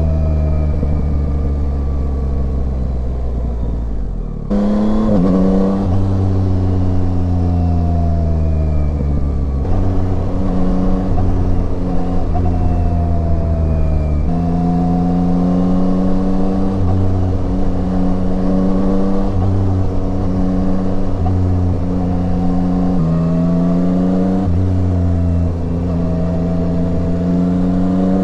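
Yamaha Tracer 9 motorcycle's inline-three engine running on the road. Its pitch sinks slowly and then jumps back up several times, as the revs fall and pick up again.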